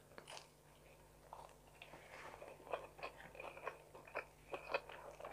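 Quiet chewing of a bite of homemade pita-bread pizza topped with sweet corn: soft, irregular crunches and wet mouth clicks.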